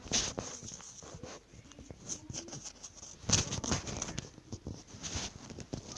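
Rustling and scattered clicks of something being handled, with the loudest rustle about three seconds in.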